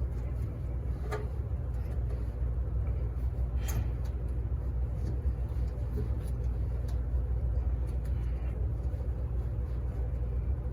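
Steady low hum of running laundromat machines, with a few light clicks and knocks over it.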